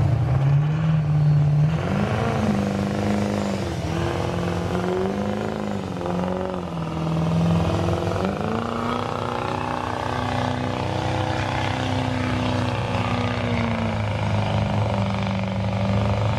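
Diesel pickup truck engine working hard under load in a truck pull, its pitch rising and dipping several times and then holding high through the second half before falling off near the end.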